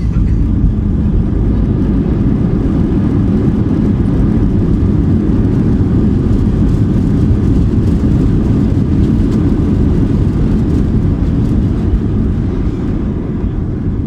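Loud, steady rumble inside the cabin of an Airbus A320-232 in flight or on the runway: engine and airflow noise heard from a seat near the front, easing slightly near the end.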